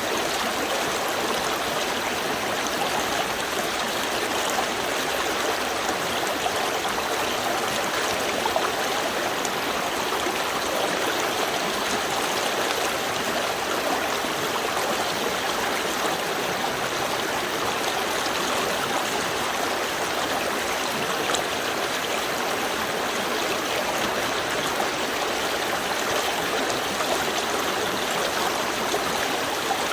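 Small river stream flowing steadily over its bed, an even rushing and trickling of water.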